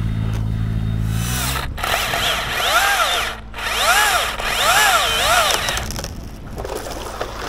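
A low engine drone cuts out about a second in. Then a small motor revs up and down several times, its pitch rising and falling about once a second, like a chainsaw being blipped on the throttle.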